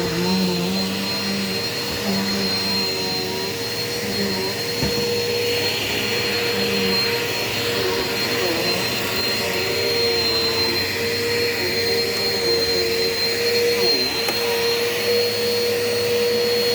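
Eureka Power Speed upright bagless vacuum cleaner running steadily: a constant motor whine over a rush of air.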